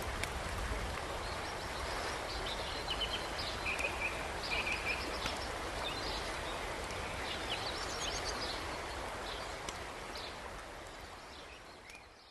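A river rushing steadily under a wood campfire crackling with sharp pops, with small birds chirping a few times. It all fades out near the end.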